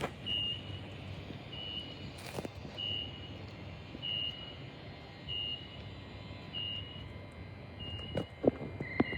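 Electric suburban train's door-open warning beeping: a short high beep repeated about every second and a quarter while the doors stand open, over the train's low idle hum. A few sharp knocks come near the end, and a lower steady tone begins just before it ends.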